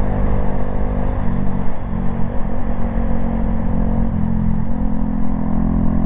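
Honda Grom's small single-cylinder engine running under way, its note dipping and rising slightly a couple of times as the revs change.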